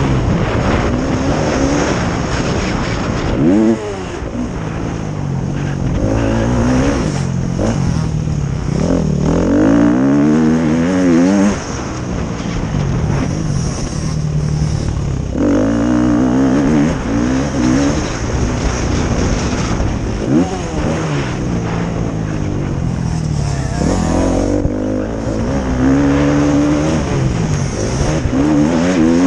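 Several motocross bikes racing, their engines revving up and falling off again and again as they ride the track, with overlapping engine notes and louder swells as bikes come close.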